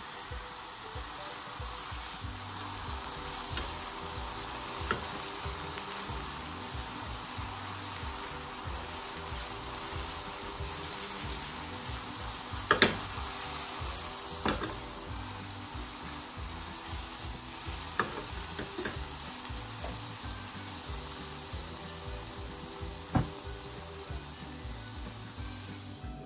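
Atsuage tofu, onion and green pepper sizzling in a frying pan while being glazed with sauce, with a few sharp metal clicks against the pan, the loudest about halfway through. Soft background music runs underneath.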